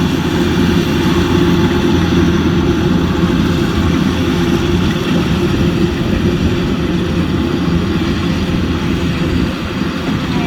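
Rice combine harvester's engine and machinery running steadily, easing off slightly near the end.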